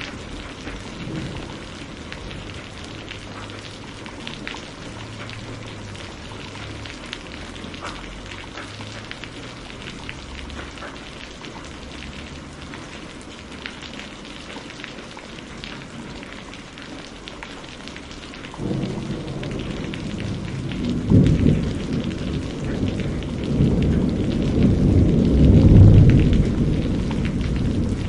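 Steady rain with scattered small ticks and drips. About two-thirds of the way in, a low rumble of thunder starts suddenly and swells, loudest shortly before the end.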